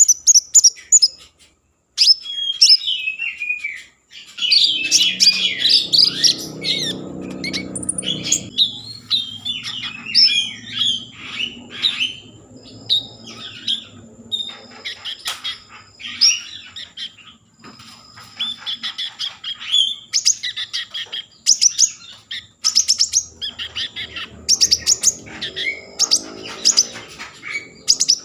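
A konin songbird singing busily (gacor): a rapid, varied run of high chirps, trills and short whistles with hardly a break, the kind of song used as a lure to set other konin singing.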